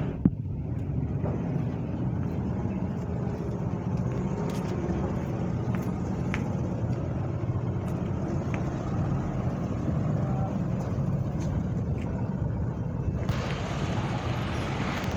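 A truck engine running steadily with a low rumble while under way. A single sharp click comes just after the start, and the sound turns brighter near the end.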